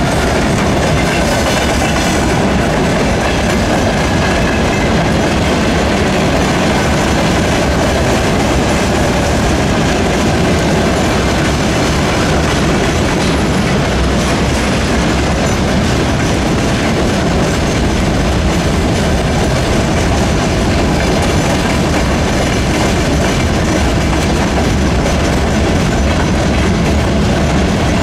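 Freight wagons (tank cars and open gondolas) rolling past at close range: loud, steady noise of steel wheels running on the rails.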